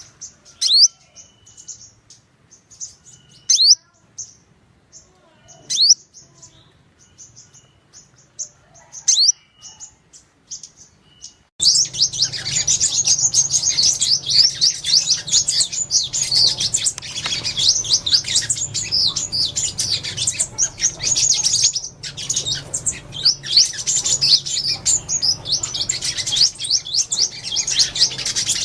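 Sunbirds calling: for about the first eleven seconds, a few sharp, very high notes sweep steeply down, with short high chips between them. Then it cuts suddenly to a dense, unbroken twittering of many birds, the flock-calling chorus.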